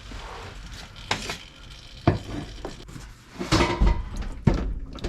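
Metal hand tools and parts clinking and knocking while working on a car's opened rear differential: a handful of sharp knocks, the sharpest about two seconds in, with a busier run of clatter in the second half.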